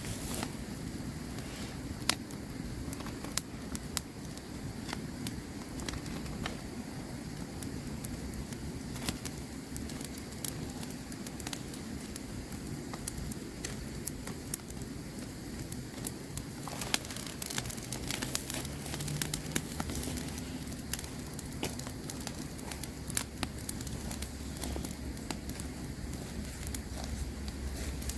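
Campfire crackling, with sharp irregular pops and snaps over a steady bed of hiss. A low rumble joins about twenty seconds in.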